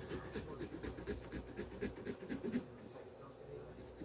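Pumpkin-carving tool scratching and picking at a pumpkin, a rapid run of small irregular clicks and scrapes.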